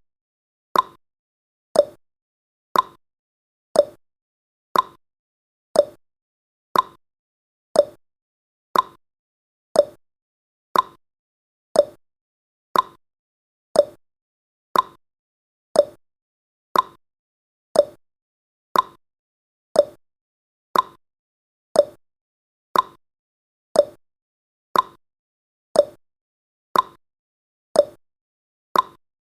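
Countdown timer's clock-tick sound effect: short, sharp ticks at a steady one per second, counting off the seconds.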